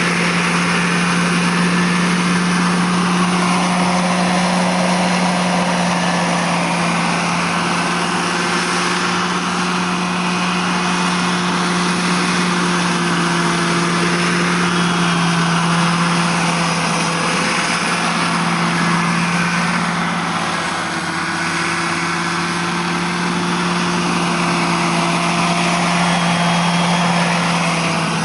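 Radio-controlled scale model Huey helicopter running, with a steady hum and a higher whine that rises and falls.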